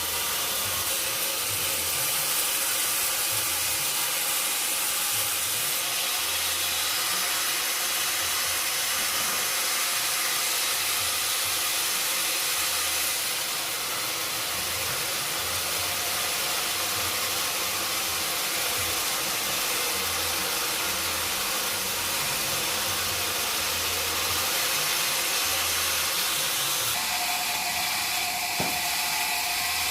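Sawmill saw cutting mahogany wood: a steady, loud hissing rush of sawing noise. Near the end a steady whine joins it.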